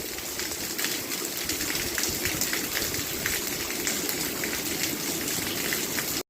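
Steady rain falling: a dense, even hiss full of small drop taps. It cuts off suddenly near the end.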